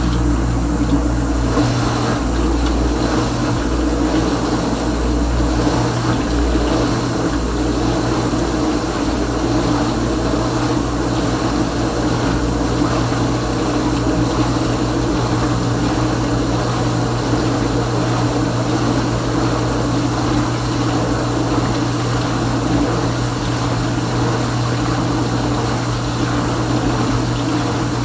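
Kenmore Ultra Wash dishwasher running, its pump motor humming steadily under a constant rush of water.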